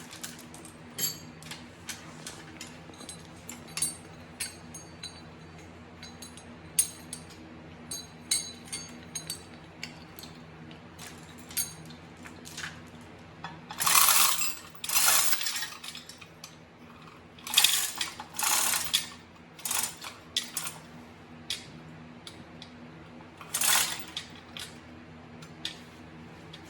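Metal tools and parts clinking and clanking during tractor transmission disassembly: many sharp, ringing metal knocks, with a few louder noisy bursts of about a second each, over a steady low hum.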